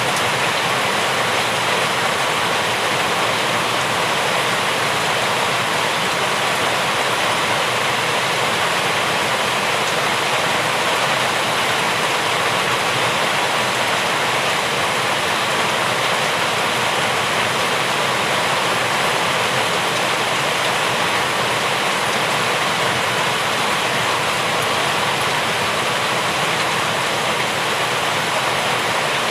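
Steady heavy rain falling as a dense, even hiss that does not rise or fall.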